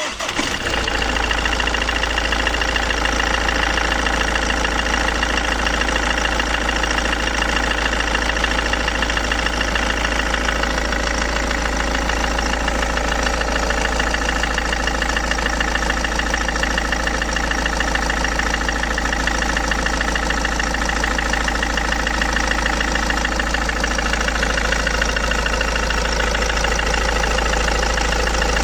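Ford Mondeo 5's 2.0 litre 180 hp T8CC diesel engine running steadily, with an extraneous knock that the owner cannot identify.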